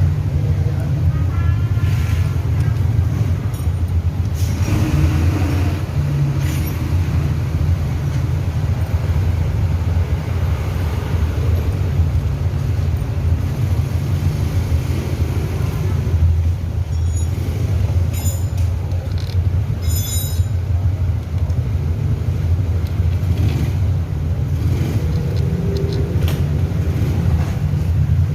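Steady low rumble of vehicle noise, with a few quick light metallic clicks of hand tools about 17 to 20 seconds in.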